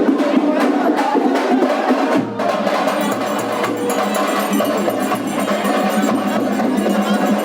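Loud percussion music: drums struck in a fast, dense rhythm, with a brief break about two seconds in and a high ringing added after it.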